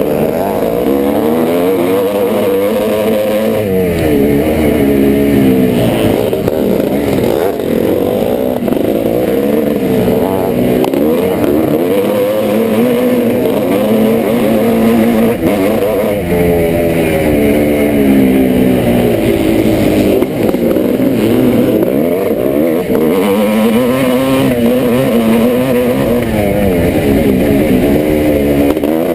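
1986 Yamaha YZ490's single-cylinder two-stroke engine racing on a motocross track, revving hard and dropping off again and again, its pitch rising and falling every few seconds.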